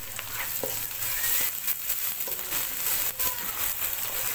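Onion, tomato and ginger-garlic masala sizzling in oil in a kadai while a spatula stirs it, with frequent light clicks and scrapes of the spatula against the pan.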